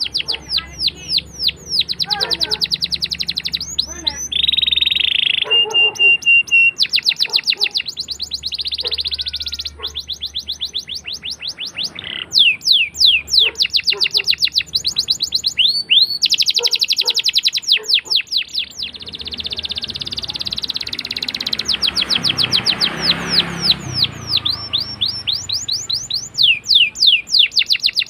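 Domestic canary singing a long, continuous song of rapid rolling trills, fast runs of repeated down-slurred notes broken by a few held whistled notes.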